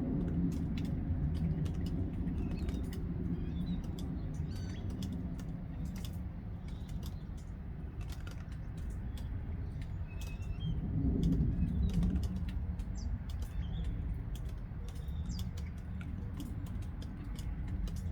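Northern mockingbird singing faintly in short, varied phrases of high notes, over a louder low rumble that swells about 11 seconds in. Many sharp clicks are scattered throughout.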